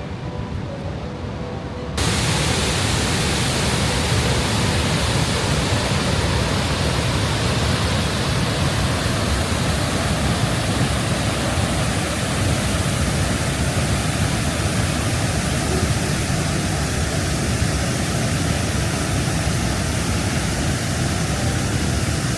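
Steady, dense rushing noise of the water at Niagara Falls, cutting in abruptly about two seconds in over a quieter background with faint steady tones.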